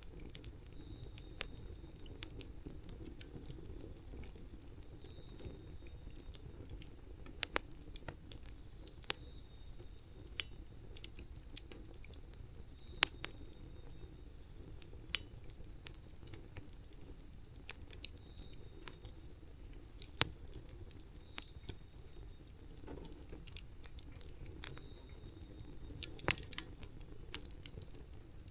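Wood campfire burning: irregular sharp crackles and pops, a few of them loud, over the low steady sound of the flames.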